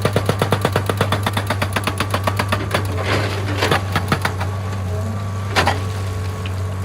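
Excavator-mounted hydraulic rock breaker hammering stone in rapid, even blows, about six a second, over the excavator's steady diesel engine hum. The hammering fades out about four seconds in, with harsher crashing bursts near three seconds and five and a half seconds in.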